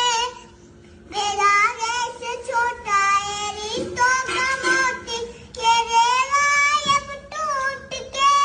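A child's high-pitched singing voice, sung in phrases of a second or two with short breaks between them.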